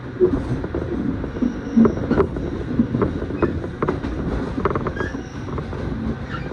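Commuter train heard from inside a passenger car while running: a steady low rumble from the wheels on the rails, with irregular creaks and knocks from the car body.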